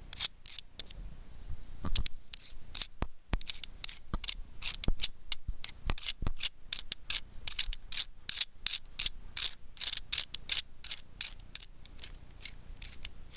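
A nut being screwed onto a bolt by hand: a rapid, irregular run of small scratchy clicks as the threads catch and the nut is turned.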